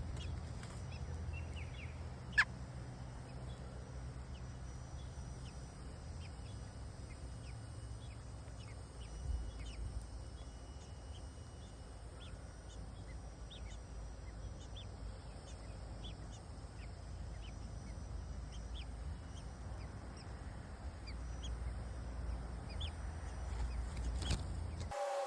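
Birds chirping: many short, high chirps scattered throughout over a steady low rumble, with one sharp click about two and a half seconds in.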